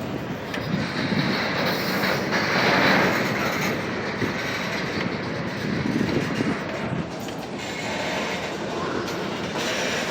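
Norfolk Southern freight cars rolling slowly past, their steel wheels running on the rails with a steady rumble that swells a little about two to three seconds in.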